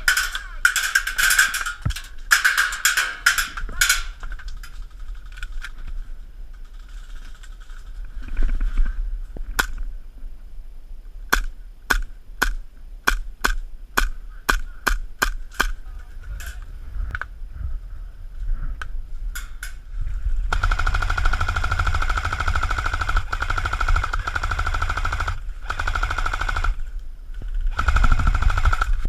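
Airsoft guns firing: rapid full-auto bursts at the start, a short burst, then a string of evenly spaced single shots, and from about two-thirds of the way in a long unbroken rattle of full-auto fire.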